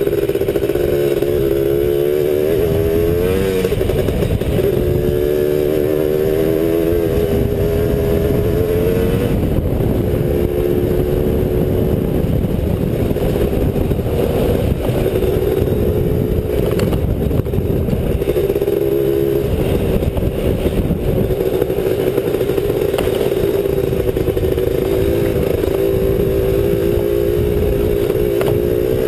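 Honda 250R engine running under way on a dirt trail. The revs rise and fall several times during the first third, then settle to a steadier cruise, over a constant rough rumble and rattle from riding.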